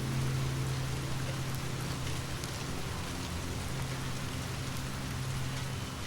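Steady rain falling, with scattered faint drop ticks and a low steady hum underneath.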